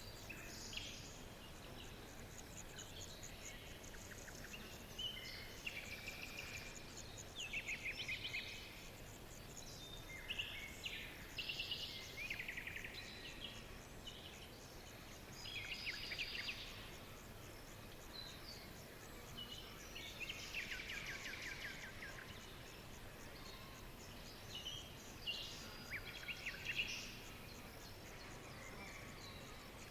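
Songbirds chirping and trilling in short, high phrases of fast repeated notes, one phrase every second or two, over a steady faint hiss.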